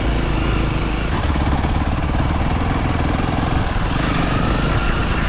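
Honda CRF300L dirt bike's single-cylinder four-stroke engine running steadily as the bike is ridden.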